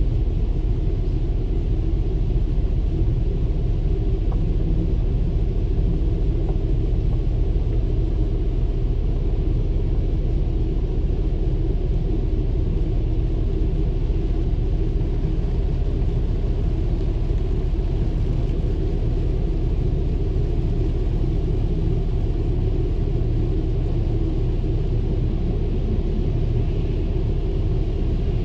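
Automatic car wash running around a car: a steady low rumble that holds unchanged throughout.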